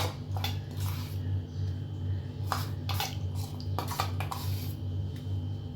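A metal spoon scraping and knocking against a bowl of yogurt-spice marinade, several separate clinks while it is spooned over the chicken, over a steady low hum.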